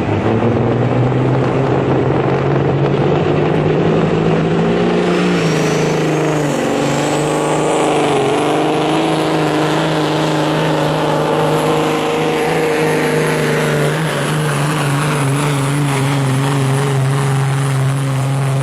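Modified semi truck's diesel engine running hard at high revs during a sled pull, a loud, steady drone with the pitch held nearly level and slight dips about five and fourteen seconds in.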